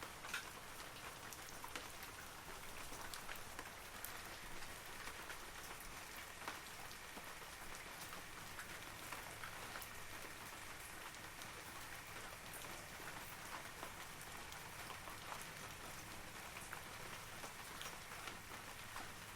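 Steady rain falling on forest trees, a soft even hiss with many individual drops pattering on leaves.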